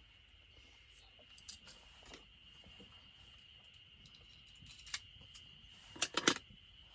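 A few light clicks and taps, a quick cluster of them about six seconds in, over a steady faint high-pitched tone.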